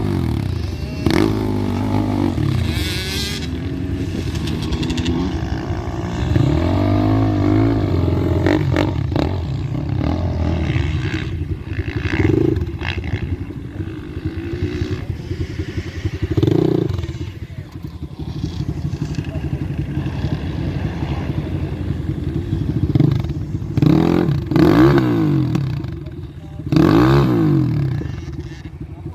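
Gas Gas EC200 two-stroke enduro motorcycle engine riding off-road, its pitch rising and falling again and again as the throttle is opened and closed, with sharper revs near the end.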